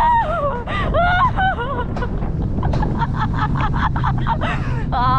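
Alpine coaster cart running fast down its rail, with a steady low rumble of wind on the microphone. A rider gives high-pitched laughing cries in the first second and a half, then the cart rattles in quick clicks, about four a second, as it slows under light braking.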